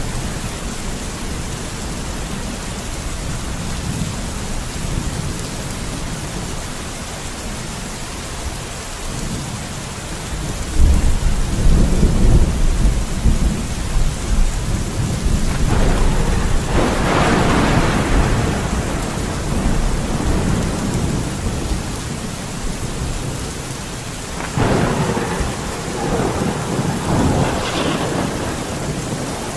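Steady heavy rain with rolling thunder: a low rumble builds about ten seconds in, swells further around the middle, and a second roll comes near the end.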